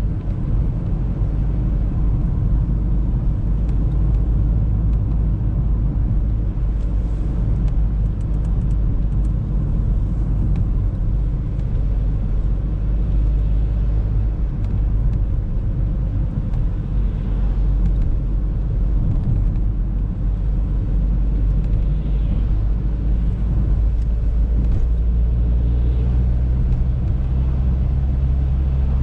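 Audi A3 driving, a steady low rumble of engine and road noise; near the end it settles into a steadier low hum.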